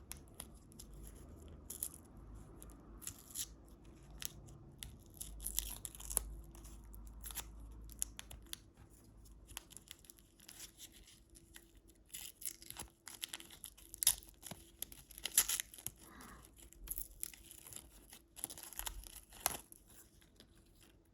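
Plastic snack wrapper being torn open and crinkled by hand, with irregular sharp crackles throughout.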